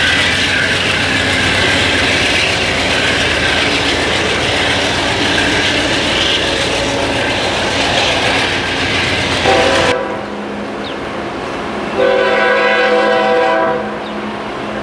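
An Amtrak passenger train rolls past close by, a steady loud noise of wheels on rail, until it cuts off abruptly about ten seconds in. Then an approaching freight locomotive sounds its multi-chime air horn in one chord-like blast of under two seconds.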